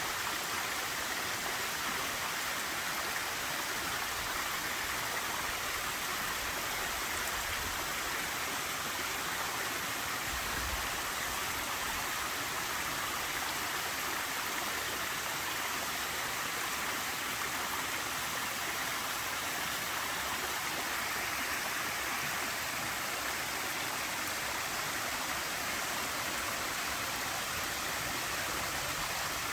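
Small waterfall with a somewhat low flow of water, splashing and rushing in a steady, gentle wash.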